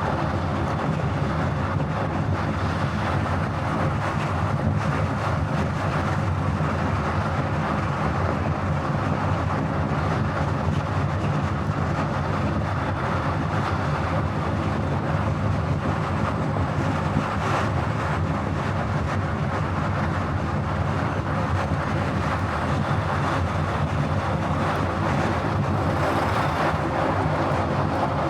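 Car driving at highway speed: steady tyre and road noise with engine hum, unchanging throughout.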